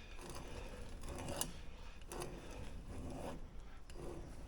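Longacre oil filter cutter's wheel being turned around a spent Fleetguard oil filter, scraping and scoring its steel can. The strokes come about once a second, five in all.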